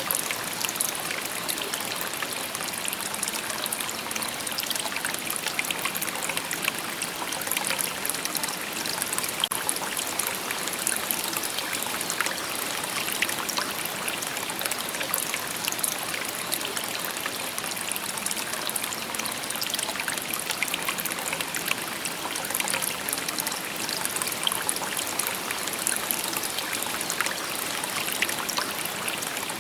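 Shallow river babbling and trickling over stones, a steady rush of water flecked with small splashes.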